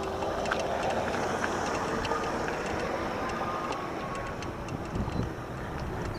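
Electric bicycle riding over rough off-road ground: a steady rumble of tyres and wind, with frequent small clicks and rattles from the bike, and a faint steady whine underneath.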